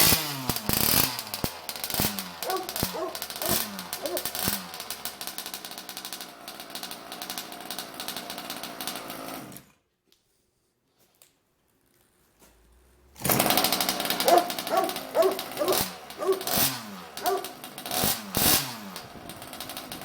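Small two-stroke petrol engine of a Rovan R320 Baja RC buggy running and being blipped, its pitch rising and falling with each rev. About ten seconds in it stops, then after about three seconds of near silence it runs again and is blipped repeatedly.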